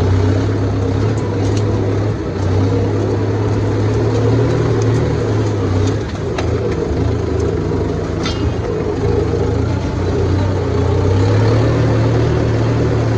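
Farm tractor engine running steadily under way, with a low, even hum and a few light clicks and rattles.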